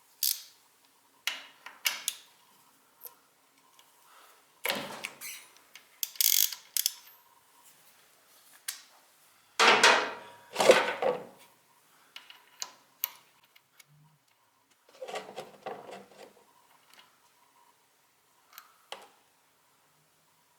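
Irregular clicks, rattles and clanks of metal hand tools and parts being handled while a pit bike engine is taken apart, with the loudest clatters about five, ten and fifteen seconds in.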